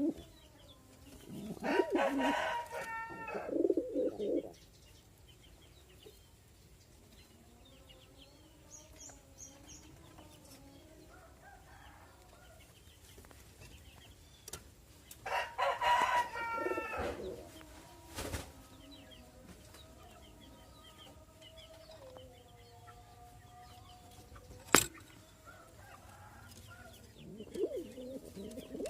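Domestic pigeons cooing softly with low, wavering notes, while a rooster crows twice, loudly, about two seconds in and again about sixteen seconds in. A couple of sharp clicks sound in the second half.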